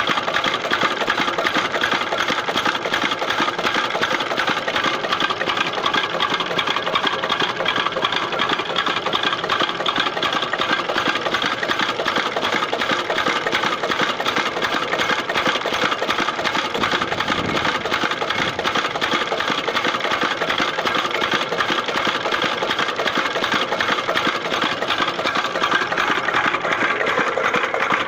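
Small 8 hp diesel engine running steadily at constant speed, with a rapid, even clatter.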